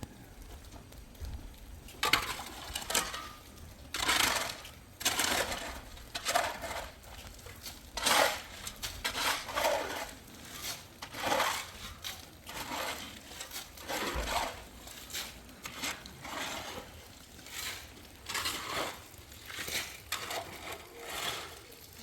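Repeated rough scraping strokes, about one a second at uneven intervals, each short and gritty.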